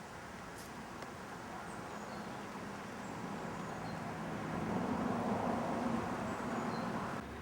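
A motor vehicle passing, its engine and road noise building to a peak about five seconds in and then easing, with a few faint high chirps.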